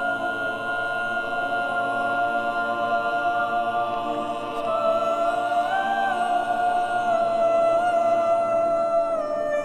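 Music: voices singing or humming long held notes together, several pitches sounding at once. The top note lifts briefly about halfway through and steps down near the end.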